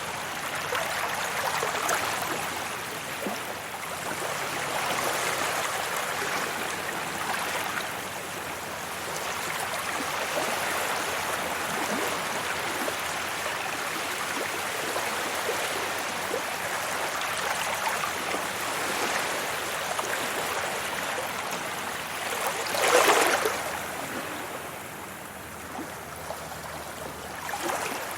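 Sea waves washing onto a beach: a continuous rush of surf that swells and eases every few seconds, with one louder wave breaking about three quarters of the way through.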